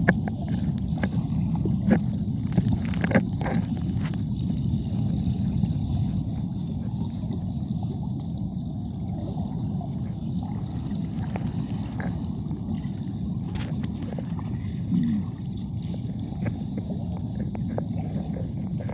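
Steady low rumble of rushing river and waterfall water, with scattered small clicks and knocks.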